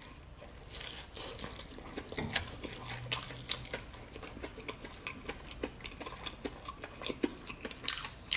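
Close-up chewing of a crumb-coated baked chicken drumstick, with irregular small crunches and wet mouth clicks.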